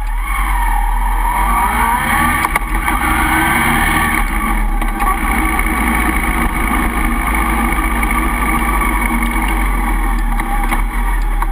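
Honda CB1300 Super Bol d'Or's inline-four engine, picked up by a bike-mounted camera, rising in pitch as it pulls away in the first two seconds or so, then running steadily at low speed in traffic.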